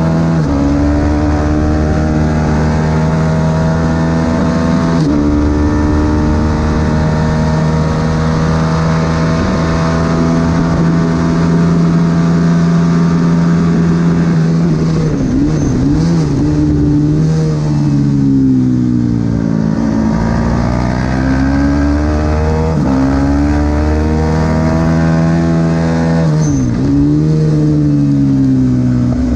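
Supersport 300 race motorcycle engine running hard at high revs, with brief pitch drops at each upshift. About two-thirds of the way in the revs fall away under braking and climb again under acceleration, and near the end they dip once more and rise.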